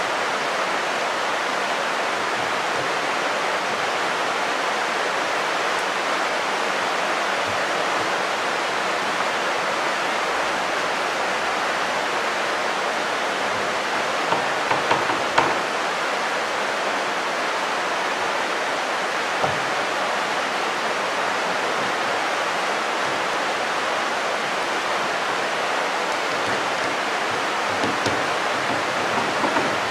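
Steady rain falling, an even dense hiss. A few small clicks from a screwdriver at the microwave's keypad circuit-board panel come about halfway through, once more shortly after, and again near the end.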